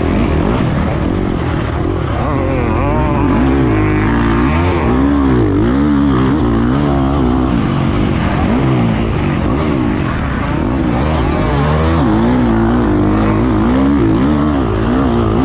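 Motocross dirt bike engine revving up and down over and over, pitch rising and falling every second or so as the throttle is opened and chopped around the track, heard close up from the rider's GoPro.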